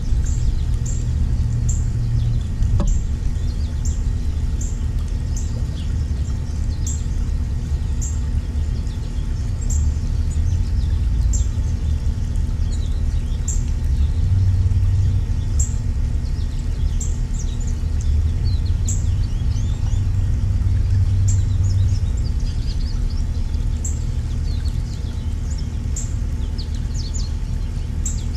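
Small songbirds chirping and twittering, with a short high note repeating roughly every second and a flurry of chirps in the second half, over a steady low rumble.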